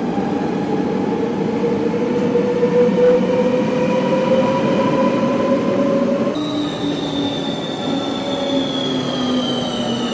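Electric rail vehicle in motion, its motors whining over a steady running rumble. The whine climbs slowly in pitch, and about six seconds in it switches to a higher whine that slowly falls.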